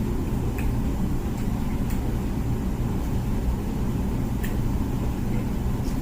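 Comfee dishwasher running its wash cycle: a steady low rumble of the circulation pump and water spraying inside the tub, with a few faint clicks.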